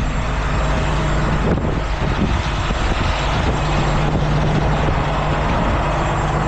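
Heavy rotator tow truck's diesel engine running steadily with a constant low hum.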